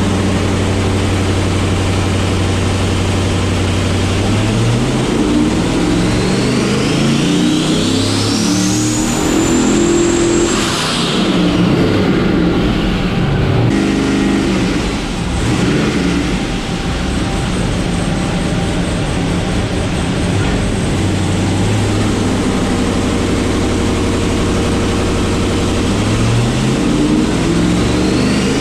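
Twin-turbo LS V8 drag car engine on a chassis dyno. It holds steady revs, then climbs hard under load with a rising whine about halfway in. It drops back off, settles again, and starts another climb near the end.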